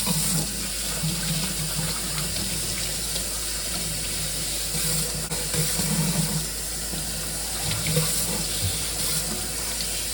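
Kitchen sink tap running in a steady stream; the water comes on suddenly.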